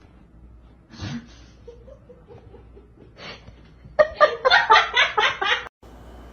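A person laughing: a run of quick, rapid bursts of laughter about four seconds in, cut off abruptly near the end.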